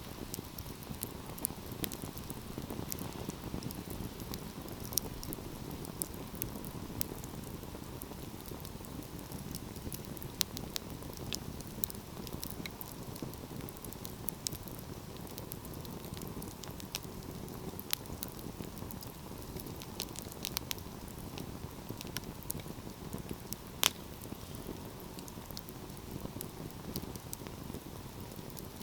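Wood fire burning with a steady low rush of flames and frequent irregular crackles and pops, one sharper pop near the end.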